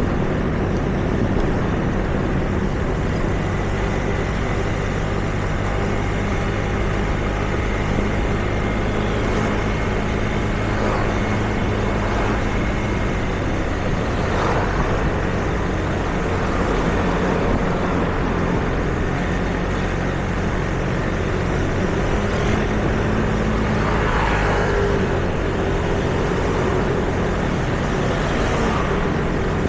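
Street traffic: a steady engine hum from running vehicles, with a few engine notes that shift in pitch as vehicles pass.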